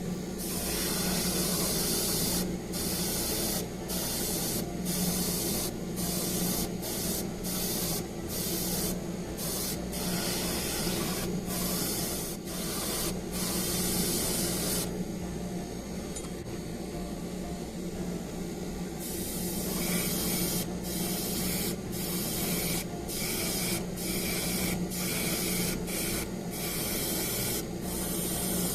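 Airbrush spraying black-gold paint onto model-kit wheels in many short bursts of hiss, with a pause of a few seconds about halfway through. A compressor hums steadily underneath.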